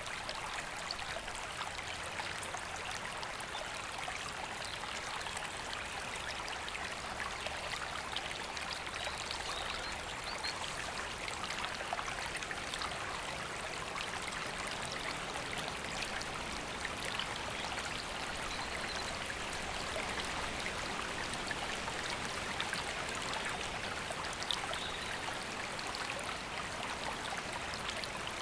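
A river flowing steadily over rocks, an even rushing and trickling of water. A few faint bird chirps come through now and then.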